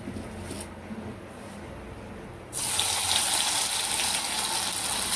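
Marinated soya chunks (meal maker) deep-frying in hot oil in a kadai: quiet at first, then about halfway through a sudden loud, steady sizzle as the chunks go into the oil and bubble.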